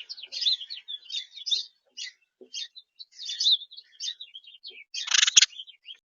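Birds chirping: a quick run of varied chirps and short trills, with a louder, busier burst and a sharp click about five seconds in.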